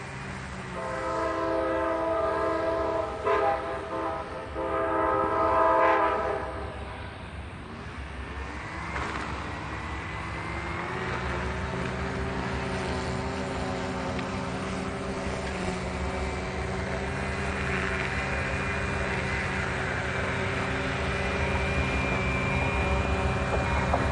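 Amtrak diesel passenger locomotive sounding its multi-tone air horn for about six seconds, broken by two short gaps. The horn then gives way to the locomotives' steady diesel rumble and the noise of the train on the rails, growing gradually louder as the train comes by, with a thin high whine in the last few seconds.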